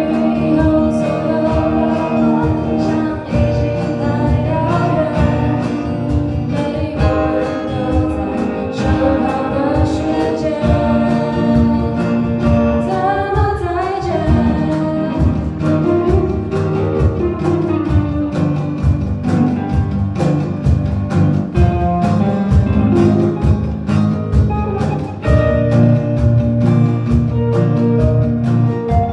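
A pop song sung with guitar accompaniment over a steady beat.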